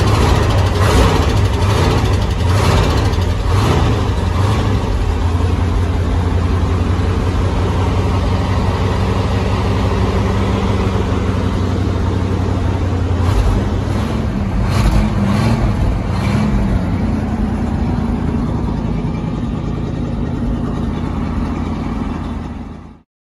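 1963 International Loadstar truck engine running just after a cold start: revved in several quick blips over the first few seconds, then idling steadily, with a few more revs between about 13 and 17 seconds in. The sound cuts off abruptly near the end.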